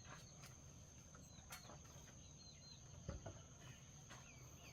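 Faint rural ambience: small birds chirping, a steady high insect drone, and a soft thump about three seconds in.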